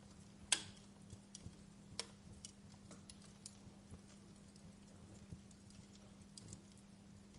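Wood fire crackling: irregular sharp pops and snaps, the loudest about half a second in and another at about two seconds, over a faint steady low hum.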